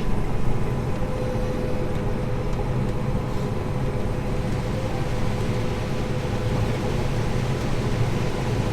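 Heavy farm machinery running steadily: a dense, constant engine-and-machine drone with a faint steady whine over it.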